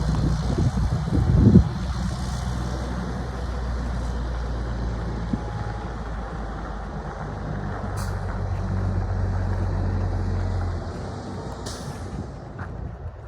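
2007 Mack Granite dump truck's diesel engine idling steadily, with a couple of heavy knocks in the first two seconds. Short bursts of air hiss come about eight seconds in and again near twelve seconds, and the engine note drops away about eleven seconds in.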